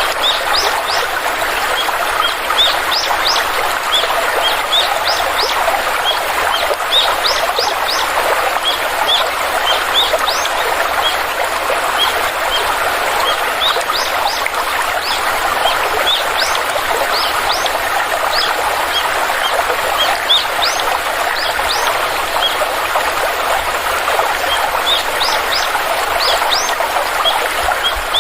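Stream water flowing steadily, with small birds chirping throughout in short, quickly rising notes.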